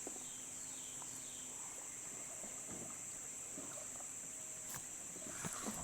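Insect chorus, a steady high-pitched drone, with a few faint knocks near the end.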